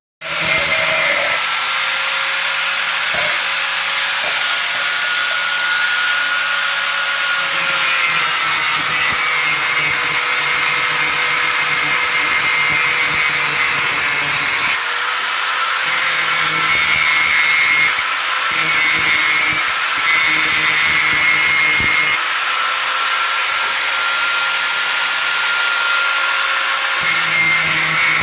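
Electric grinder running steadily with a constant motor whine, grinding the edge of a bolo knife (itak) to sharpen it. The high grinding hiss swells and eases several times as the blade is pressed to the wheel and lifted off.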